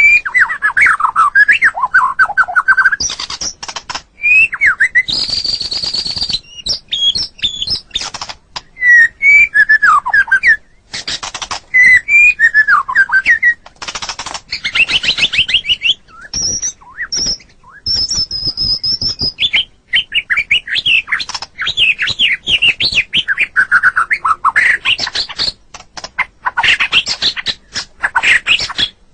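White-rumped shama singing a loud, varied song: whistled phrases that slide up and down, high piping notes, and fast runs of harsh clicking notes, in phrases broken by short pauses.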